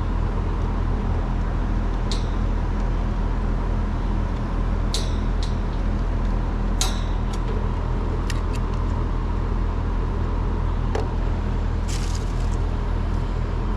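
Steady low machine hum, with a few light clicks and rattles of wires and tools being handled.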